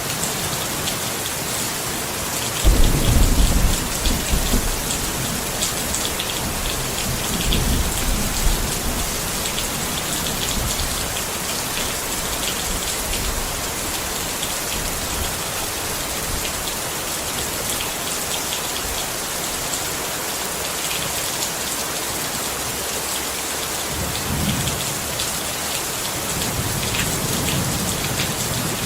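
Steady rain pattering on a tent, with individual drops ticking throughout. A low thunder rumble swells up about three seconds in, the loudest moment, and rolls on to about nine seconds; another softer rumble comes near the end.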